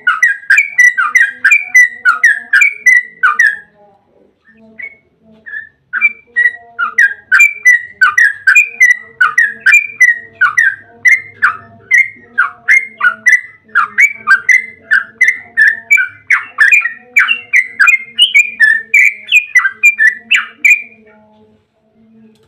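Yellow-vented bulbul (trucukan) singing a long, rapid 'ropel' run of loud chattering notes, about three a second, breaking off for about two seconds near four seconds in and then running on almost to the end.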